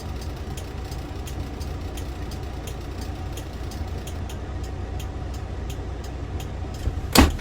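Toyota Land Cruiser 75's engine running steadily as it drives through deep snow, with faint regular ticking over the low rumble. A single sharp knock about seven seconds in.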